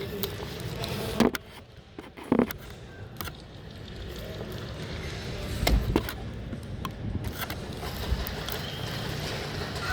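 Several sharp knocks or cracks, two close together about a second and two seconds in and a pair near the middle, over a steady low rumble.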